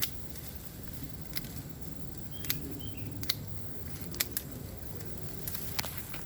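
Irregular sharp clicks and snaps, about eight to ten scattered through, over a steady low rumble, with two faint short chirps about two and a half and three seconds in.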